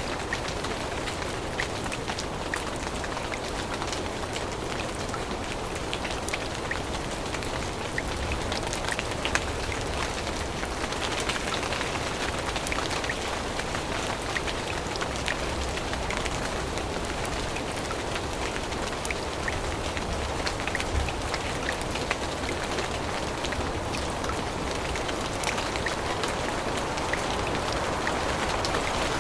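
Steady rain falling on forest foliage, a continuous hiss with many individual drops ticking through it.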